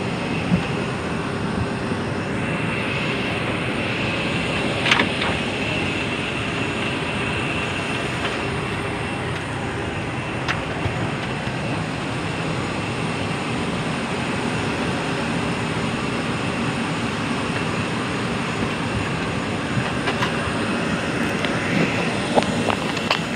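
Steady cabin noise inside an airliner, with a thin high hum running through it and a few short clicks.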